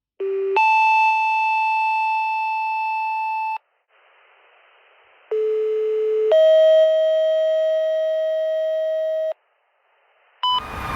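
Fire dispatch paging tones over a radio: two sets of two-tone sequential pages, each a short lower tone stepping up to a steady higher tone held about three seconds, with faint radio hiss between the sets. A brief tone comes about half a second before the end, as louder vehicle noise begins.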